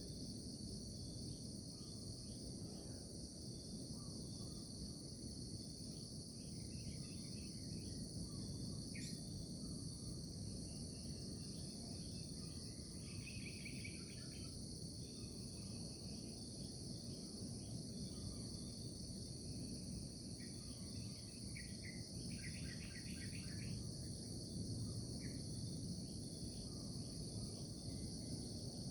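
Steady high-pitched insect chorus with scattered short bird chirps, over a low background rumble.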